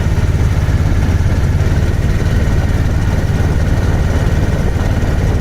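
A riverboat's engine running steadily at low pitch, with a fast, even pulse.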